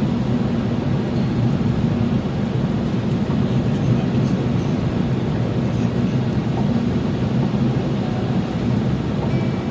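Steady low rumble of a car driving on the road: tyre and engine noise, with no break or change.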